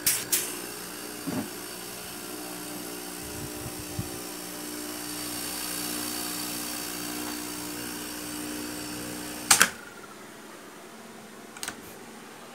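Steady electrical hum and motor whine of the running circuit load under a magnetic contactor, ending with a sharp double clack about nine and a half seconds in, after which the hum stops and it goes quieter. A smaller click follows about two seconds later.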